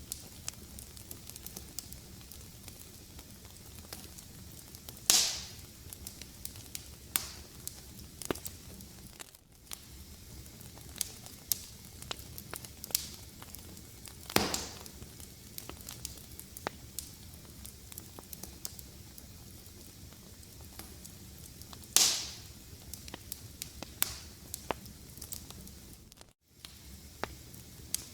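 Wood fire in a fireplace crackling steadily, with many small snaps and three louder pops spread through. The sound drops out very briefly twice.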